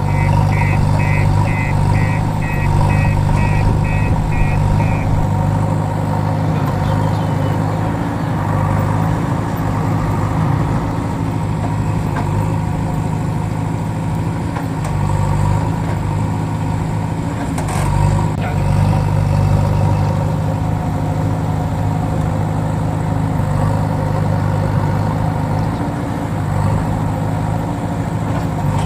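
Heavy vehicle engine idling steadily, like a backhoe loader's diesel, with a rapid electronic beeping, about two beeps a second, for the first five seconds.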